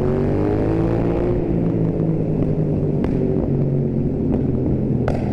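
Yamaha MT-07 parallel-twin engine through an Akrapovič Racing Line exhaust, accelerating with rising pitch for about the first second, then running steadily under a low wind rumble. A few short sharp cracks follow, exhaust pops on the overrun.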